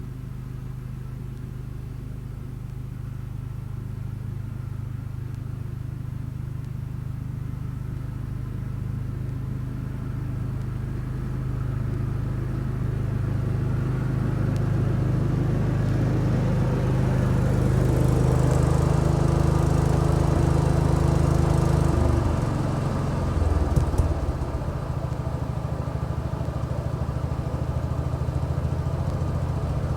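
1975 Case 224 garden tractor's engine running steadily, growing louder over the first twenty seconds. About 22 seconds in the engine note changes, with a short clatter near 24 seconds, then it runs on steadily.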